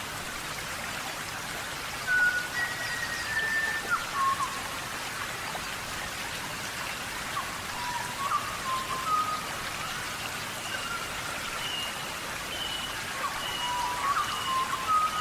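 Steady rainforest rain, an even hiss of falling drops, with short whistled calls scattered through it and a run of repeated higher notes in the second half.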